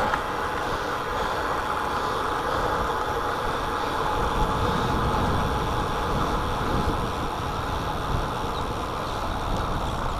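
Steady rush of wind and road noise on a chest-mounted camera while riding a road bike, with no breaks or sudden sounds.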